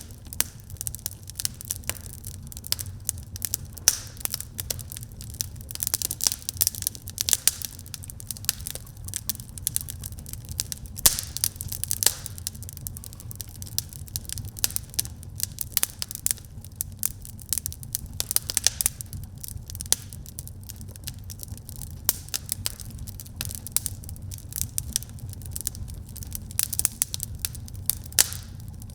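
Fire crackling in a fireplace, with many sharp, irregular pops and snaps over a steady low rumble.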